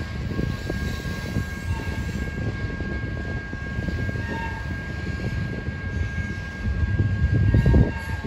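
Low, steady rumble of a passing freight train, swelling louder near the end.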